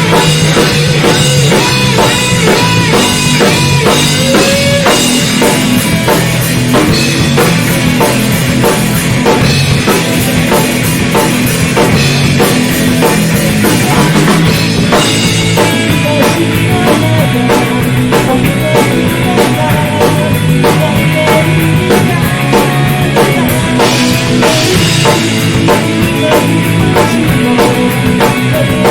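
Loud rock music with a drum kit and guitar, keeping a steady beat throughout.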